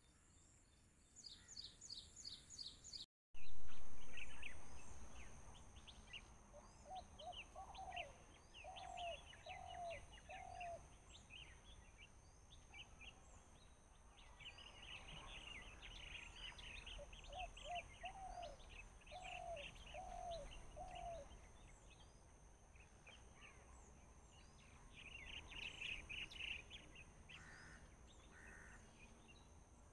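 Small birds chirping and twittering outdoors, with a lower rising call repeated in two runs of four notes, over a steady high whine and low rumble. A loud thump about three seconds in fades away over a couple of seconds.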